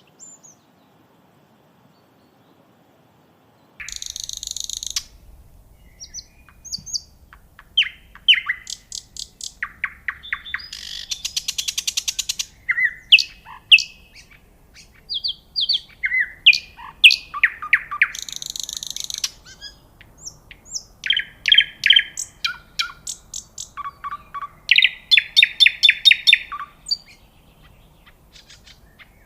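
Birds chirping, whistling and trilling in quick, varied calls, starting about four seconds in after a near-silent start.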